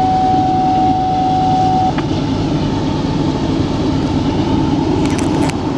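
Double-stack freight train passing close by at speed, its locomotives at full throttle, a steady loud rumble of engines and wheels. A single steady tone sounds over it for about the first two seconds, and there are a few short crackles near the end.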